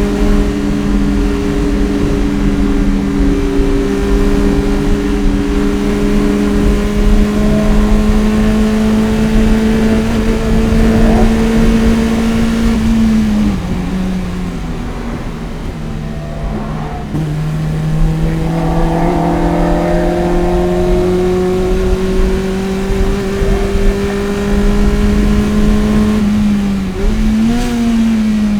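Toyota MR-S's 1.8-litre 1ZZ four-cylinder, fitted with an aftermarket header and Fujitsubo exhaust, pulling hard under load with its pitch climbing slowly. About halfway the pitch drops as the throttle comes off, then the engine pulls again, climbing steadily. Near the end the pitch rises and falls quickly once.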